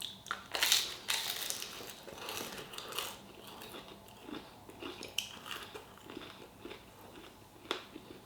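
A person chewing and biting a mouthful of chilli con carne and rice, with scattered small crunches and clicks, the strongest about a second in and near the end.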